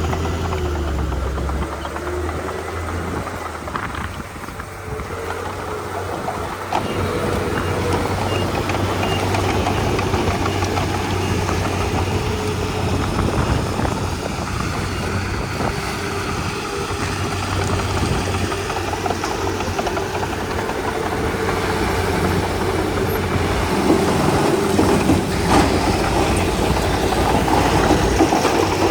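Komatsu D31P crawler bulldozer's diesel engine running under load as it works. It eases off for a few seconds after the start, then builds up louder toward the end.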